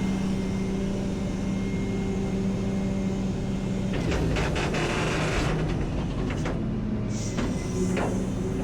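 Rollback tow truck's engine running steadily while the bed's hydraulics push the disabled truck off. About four seconds in there is a rush of noise, followed by several sharp knocks.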